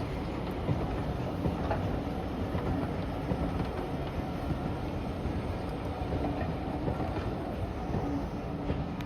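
A train running on the rails: a steady rumble with scattered light clicks from the wheels and track.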